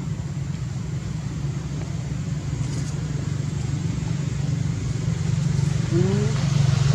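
An engine running steadily, growing slightly louder toward the end, with a brief rising squeak about six seconds in.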